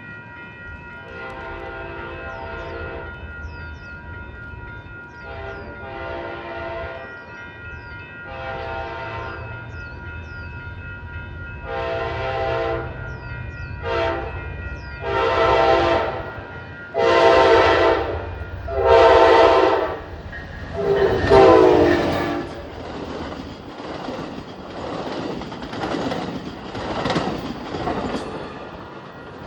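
Amtrak diesel locomotive's multi-chime air horn sounding a series of blasts that grow louder as the train approaches, over the low drone of the engine. The train then passes with wheels rattling over the rail joints.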